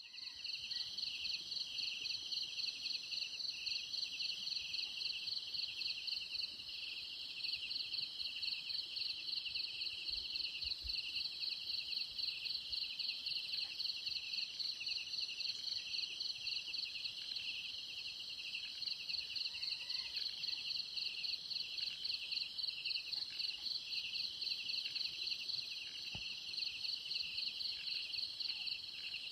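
A steady chorus of insects, several of them calling at once in rapid, even pulses at two different pitches, one high and one higher.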